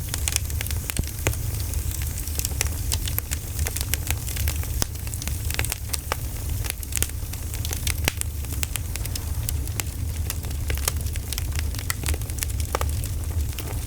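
Campfire crackling: frequent, irregular sharp pops and snaps over a steady low rumble.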